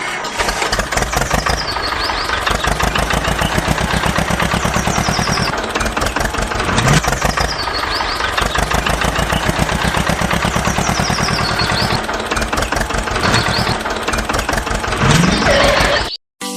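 Small engine running with a rapid, even putter, rising briefly in pitch twice, then cutting off suddenly near the end.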